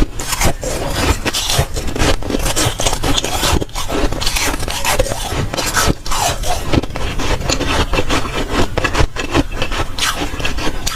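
Close-miked crunching of dry, soft freezer frost being bitten and chewed, a dense run of rapid crackling crunches that goes on without pause.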